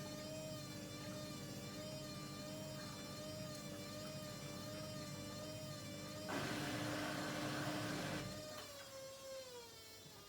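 Hoover Dynamic Next washing machine's motor running with a steady whine that wavers slightly in pitch. About six seconds in, a louder hissing rush lasts about two seconds. Near the end the whine falls in pitch as the drum slows.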